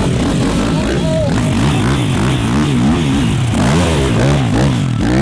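Race ATV engine being revved, its pitch rising and falling again and again as the throttle is worked.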